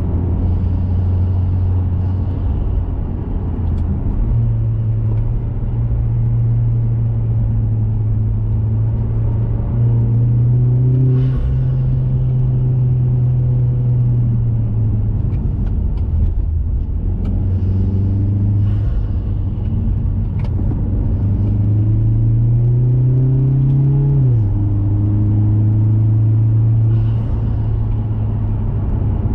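A 2021 Mazda 3 Turbo's turbocharged 2.5-litre four-cylinder running through a CorkSport cat-back exhaust while driving, its low drone rising and easing with the throttle. About 24 seconds in, the note climbs steadily, then drops sharply at a gear change.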